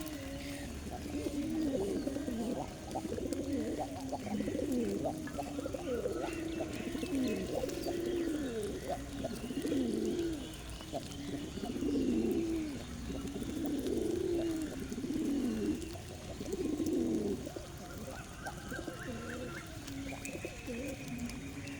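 Several birds giving low, rolling calls that rise and fall, overlapping one another almost without a break, with faint higher chirps now and then.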